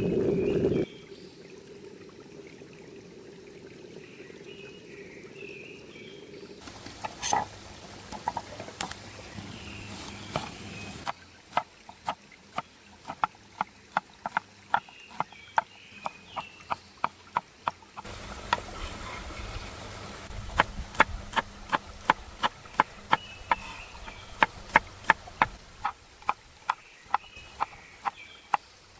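Liquid pouring stops about a second in. Later comes a steady run of sharp knife chops on a cutting board, about two to three a second, with birds chirping faintly behind.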